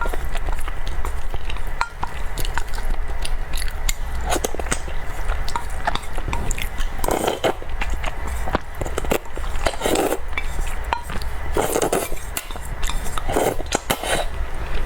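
Close-miked mouth sounds of someone eating chocolate cake: wet chewing, smacking and many small clicks, with a few longer soft mouth sounds every second or two.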